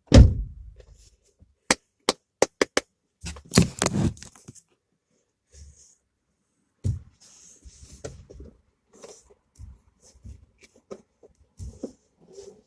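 Handling noises: a heavy thump at the start, a quick run of sharp clicks a couple of seconds later and a cluster of knocks, then scattered softer taps and rustles.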